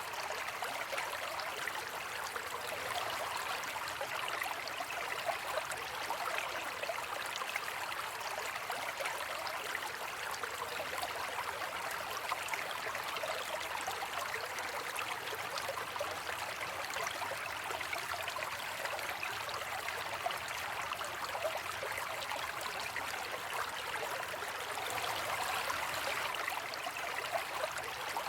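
Steady rain ambience, an even hiss of many falling drops that holds at one level throughout.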